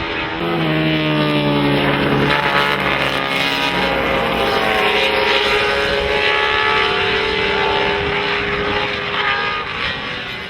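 Racing motorcycles with 990cc four-stroke MotoGP engines going past at speed, several engine notes at once. Their pitch drops steeply between about half a second and two seconds in, then settles into a steady high drone.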